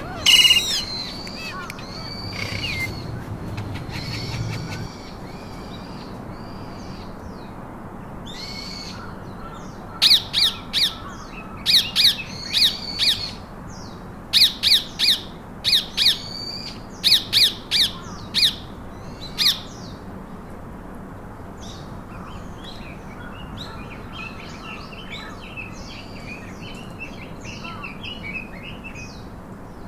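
Pet parakeets calling: a loud call at the start, then a run of about fifteen short, loud, sharp calls between about ten and twenty seconds in, followed by softer, rapid chattering chirps near the end.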